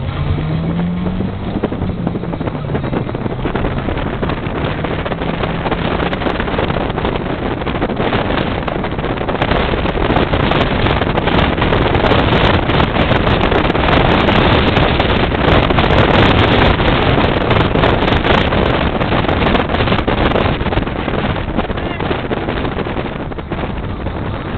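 Opel Kadett's engine and exhaust heard from inside the cabin while driving: the engine note climbs in the first couple of seconds, then gives way to a loud, dense rush of engine and road noise. The noise is loudest in the middle, with scattered sharp ticks, and eases near the end.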